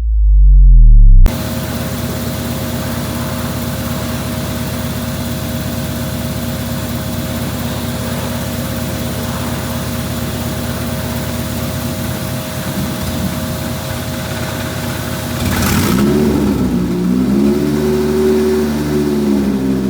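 Toyota 1ZZ-FE 1.8-litre inline-four, a used engine on its first test run, firing up with its revs flaring over about a second, then settling into a steady idle. Near the end the engine speed rises and falls a few times.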